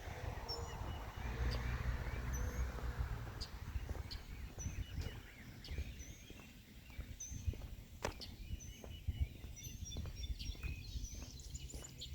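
Small birds calling back and forth with short, high chirps repeated every second or so, with a dove's low cooing in the first couple of seconds. A low rumble on the microphone is loudest in the first three seconds, and there are a few sharp clicks.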